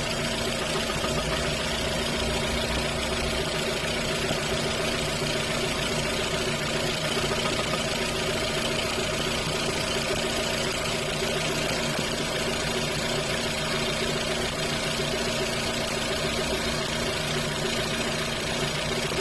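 Lada Kalina 2's VAZ-11186 eight-valve 1.6-litre engine idling steadily with a knock that the owner takes for camshaft knock.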